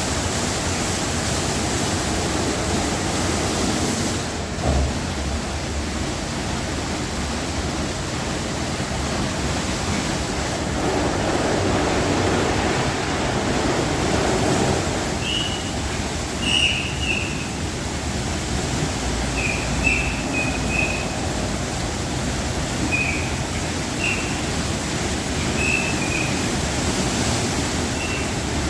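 Automatic car wash spraying water, a steady rushing hiss that swells for a few seconds about a third of the way in. In the second half a run of short, high squeaks sounds over it.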